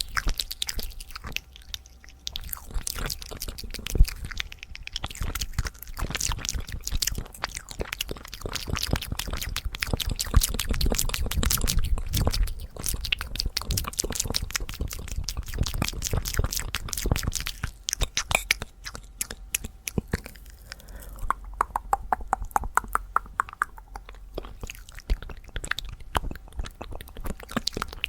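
Fast ASMR mouth sounds: a rapid, dense run of clicking mouth noises, with a stretch of quicker pitched popping about three-quarters of the way through.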